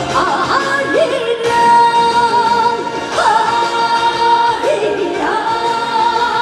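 A slow Korean folk-style trot song performed live: a woman sings long held notes with a wavering vibrato and sliding scoops over the band's accompaniment.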